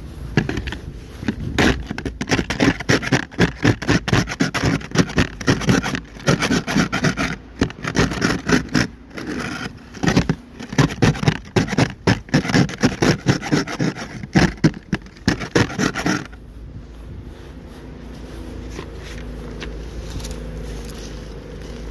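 Ice scraper strokes scraping a thick glaze of freezing-rain ice off a car, rapid and rough at about two to three a second. They stop about sixteen seconds in, leaving a steady low hum.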